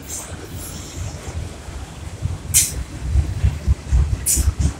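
Freight train of autorack cars rolling past at close range: a low rumble of steel wheels on the rails that grows louder and more uneven after about three seconds. Two short high hisses come about two and a half and four seconds in.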